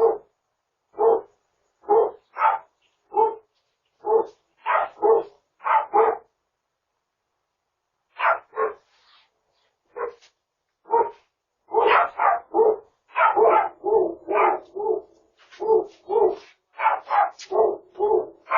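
A dog barking over and over in short barks, at times two or three close together, with a pause of about two seconds a third of the way in and a faster, denser run of barks through the second half. It comes through a video doorbell's microphone.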